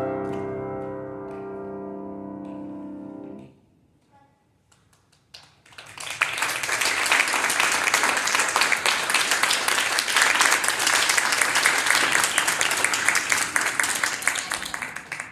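A piano's final chord rings and fades, then is damped off about three and a half seconds in. After a short quiet, applause starts about six seconds in and carries on until just before the end.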